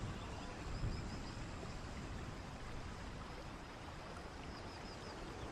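Aerial fireworks display: a steady crackling hiss with one dull low thump about a second in.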